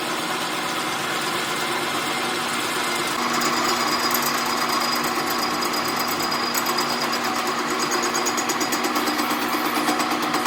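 A workshop machine running steadily. About three seconds in, a higher, harsher sound joins it, and a fast, regular pulsing carries on from there.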